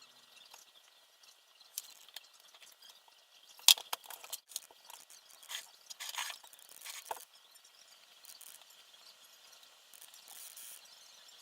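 Small parts being handled during assembly: scattered light clicks, taps and short scrapes. A sharp click comes near four seconds in, and a run of rustling scrapes follows a couple of seconds later.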